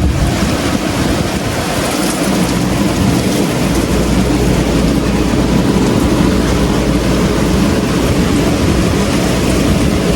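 Severe thunderstorm: heavy rain and strong wind in a loud, steady wash of noise, with a low rumble underneath that grows heavier about three and a half seconds in.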